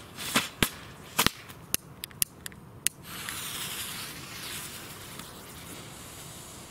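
Small ground fireworks going off: a string of sharp pops and cracks in the first few seconds, then from about three seconds in a steady hissing spray of sparks.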